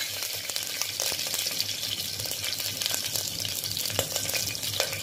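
Mustard seeds and chopped green chillies sizzling in hot oil in an aluminium pressure cooker, a steady hiss with many small scattered crackles.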